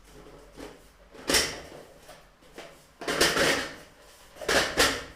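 Metal CD drywall profiles being fitted one inside the other: thin sheet metal sliding and scraping in three short bursts, about a second and a half in, at about three seconds and near the end.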